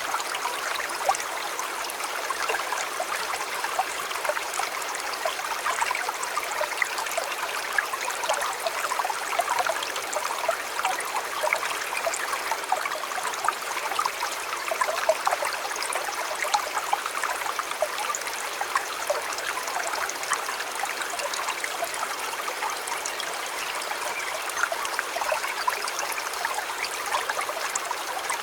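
Shallow river water flowing and trickling steadily over stones, a continuous babbling rush with small splashes.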